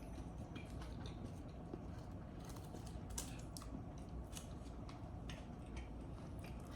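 Quiet close-up eating sounds: a scattering of small clicks and wet mouth noises from chewing, over a low steady hum.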